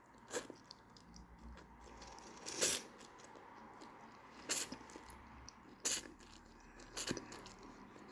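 A person eating a snack: five brief crunching bites or chews, spaced a second or two apart.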